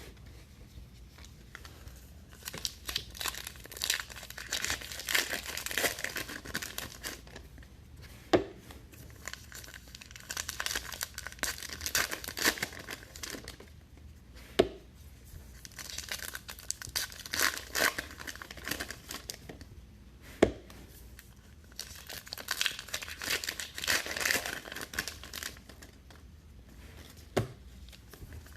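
Trading card packs being torn open, their foil wrappers crinkling and crumpling, in repeated bouts about every six seconds with a single sharp click between bouts.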